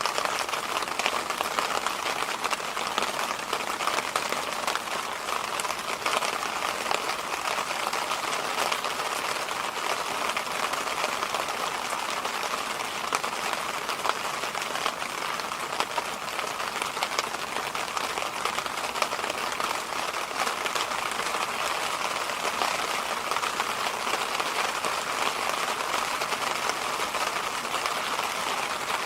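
Electric fan running steadily: a constant airy noise, strongest in the mid-range, with many faint ticks scattered through it.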